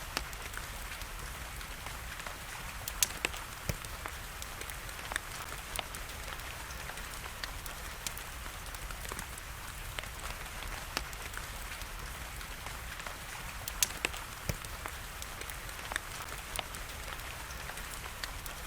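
Wood fire crackling with sharp, irregular pops, the loudest about three seconds in and again near fourteen seconds, over a steady hiss of rain.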